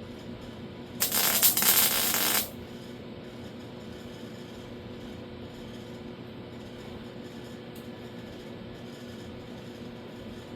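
A short weld tack on sheet steel: one loud burst of welding noise about a second in, lasting about a second and a half and cutting off suddenly, over a steady low shop hum.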